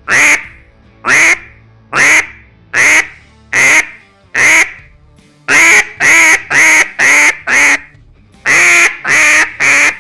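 Hand-blown duck call sounding a series of loud quacks: six evenly paced single quacks, then a quicker run of five, then three more near the end. This is a practised quack cadence.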